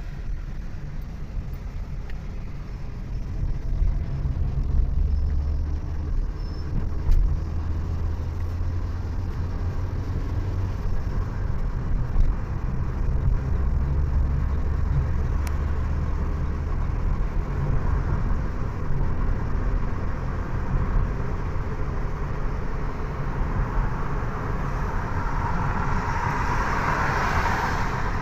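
A road vehicle driving along, with a steady low rumble of engine and road noise. A brighter hiss swells up near the end.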